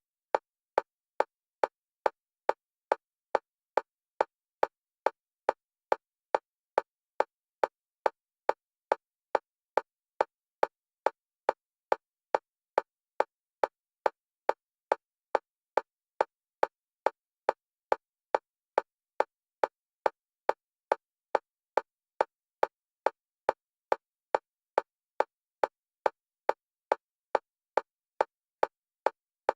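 Synthetic metronome clicks, evenly spaced at about two a second, alternating between the left and right stereo channels: an EMDR bilateral stimulation track.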